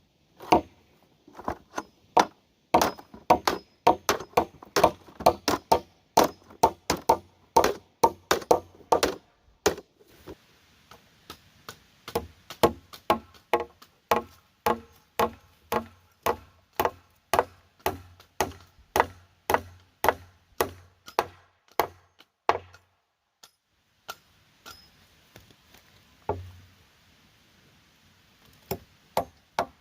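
Repeated sharp blows of a tool on wood, about two a second, with a couple of short pauses in the last third.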